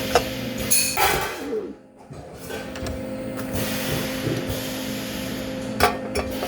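Steady machine hum with a constant noise haze, broken by a few sharp metallic clicks and knocks, twice near the start and twice near the end.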